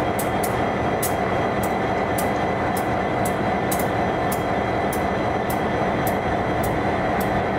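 A train running steadily past on the main line: a continuous rumble and rush of wheels on rail, with sharp clicks repeating about two to three times a second.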